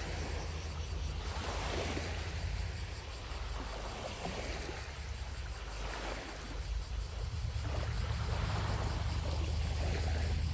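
Small lake waves lapping on the shore, a soft wash every couple of seconds, over a steady low rumble. Distant cicadas make a faint high buzz behind them.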